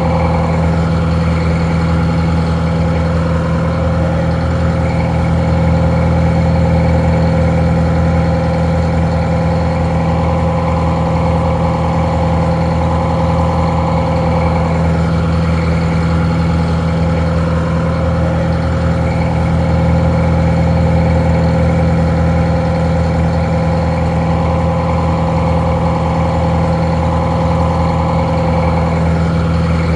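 Detroit Diesel 4-71 two-stroke inline four-cylinder diesel engine idling steadily, sounding a little muffled.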